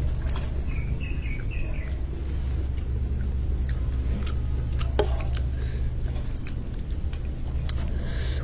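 Steady low rumble, with a few short bird chirps about a second in and a scattering of small clicks.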